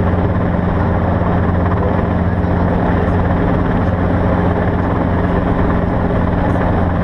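A steady, loud engine-like drone: an unbroken low hum at a fixed pitch under an even rushing noise, with no change in speed.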